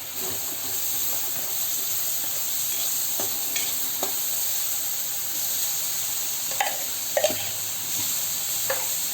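Chopped ginger, garlic and green chillies sizzling in hot oil in a kadai while being stirred with a spatula, with a few short scrapes against the pan.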